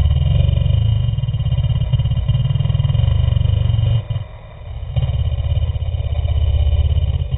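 Honda CR500's two-stroke single-cylinder engine running hard under throttle, with a rapid, low firing beat. About four seconds in the throttle briefly closes and the sound drops away, then the engine pulls hard again for a few seconds before falling off near the end.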